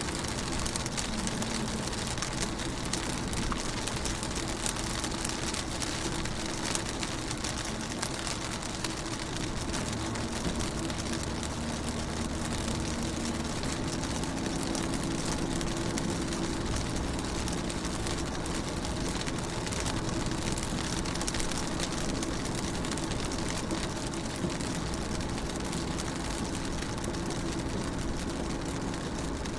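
Rain falling on a car's windows and body, a dense patter of many small drops, with a steady low hum underneath that grows a little stronger about halfway through.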